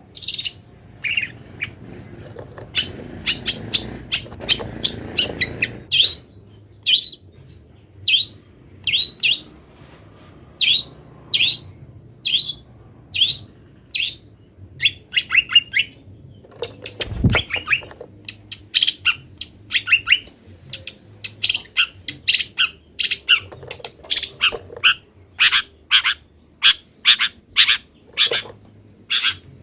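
Long-tailed shrike (cendet) singing a rapid run of short, sharp chirps and squawks, its song packed with calls mimicked from other wild birds. A single low thump comes about 17 seconds in.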